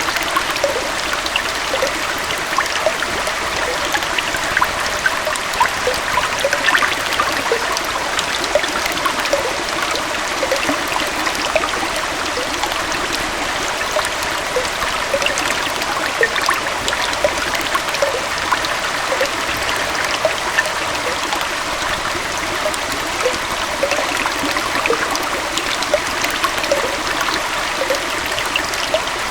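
A small waterfall and stream running steadily, a continuous rush of water with bubbling and trickling over stones.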